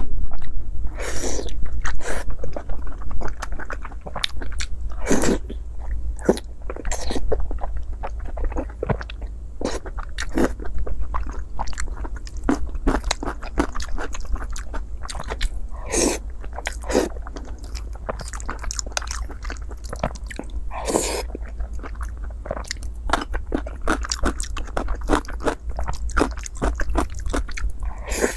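Close-miked chewing and biting of braised pork belly and rice, with many short wet mouth clicks and smacks over a steady low hum.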